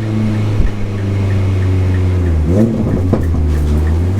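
Mini R55 Clubman race car engine idling steadily, with a quick rev blip about two and a half seconds in and a short thump near the start.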